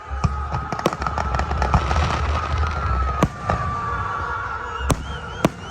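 Fireworks display: sharp bangs of aerial shells bursting, with a dense stretch of crackling in the middle. A steady high tone runs underneath.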